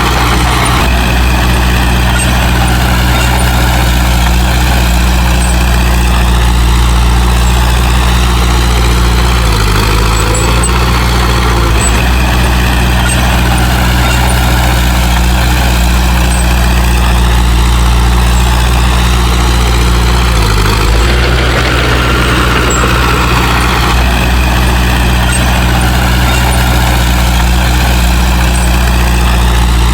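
Heavy diesel engine of an earthmoving machine running steadily, its pitch shifting briefly about ten seconds in and again about twenty seconds in.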